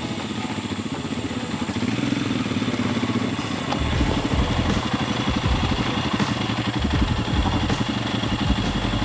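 Royal Enfield Himalayan's single-cylinder engine running at riding speed, with wind buffeting the microphone and a low rumble growing louder about four seconds in.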